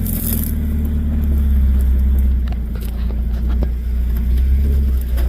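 4x4 vehicle's engine running steadily at low revs, with scattered clicks and knocks over it.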